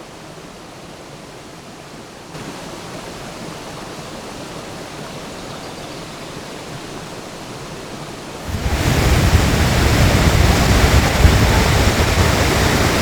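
Krimml Waterfalls' falling water, a steady rush of white water that becomes much louder about eight and a half seconds in.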